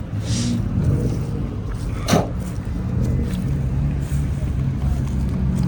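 Idling car engines at a car meet making a steady low rumble, with a brief sharp sound about two seconds in.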